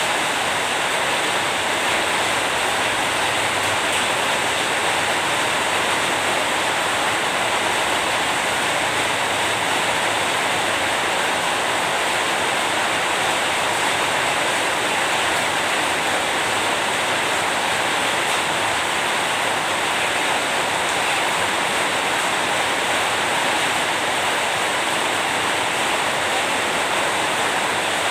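Steady, even rain falling, a dense hiss with no breaks or separate drops standing out.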